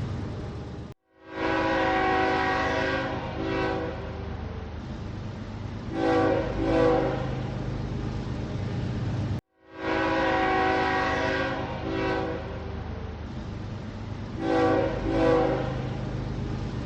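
Train horn sounding a long chord blast about a second in, then two short blasts, over a steady locomotive engine rumble. After a sudden brief cutout, the same long-then-two-short sequence repeats.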